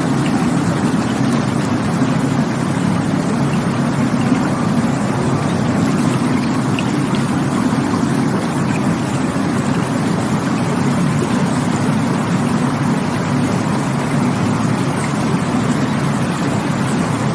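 Rushing water: a steady, deep, unbroken rush of flowing water.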